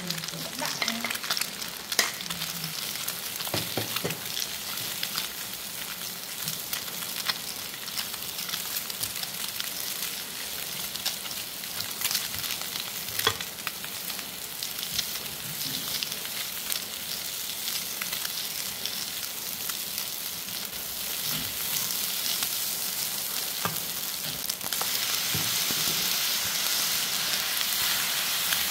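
Rice and scrambled egg sizzling in a hot pan as they are stir-fried and turned with a silicone spatula, with scattered scrapes and taps of the spatula on the pan. The sizzle gets louder near the end.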